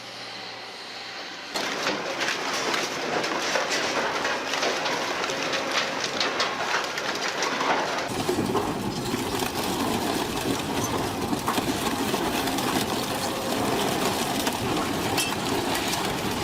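Heavy machinery running with dense, rapid metallic clattering and knocking, which starts suddenly about a second and a half in and grows heavier and deeper about halfway through.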